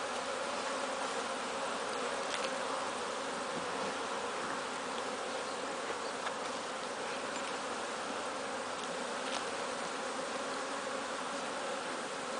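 Honey bees buzzing steadily around an opened hive, a dense hum of many bees with a few faint ticks.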